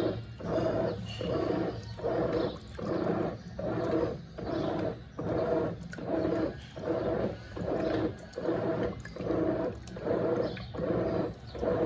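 Brastemp Eggo 1 kg mini washing machine running its wash agitation: the motor drives the washer in short, evenly repeating pulses, about three every two seconds, over a steady low hum.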